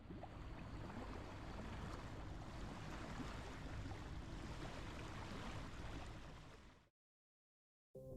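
Water and waves washing, a steady wash of noise that fades out near the end.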